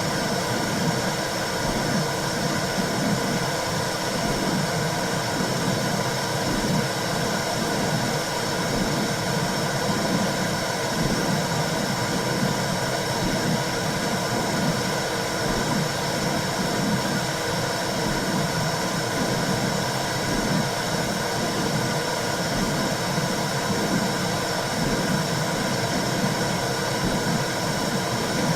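Womb sound for soothing a baby: a steady whooshing noise with a low, uneven pulsing under a constant hiss, without change.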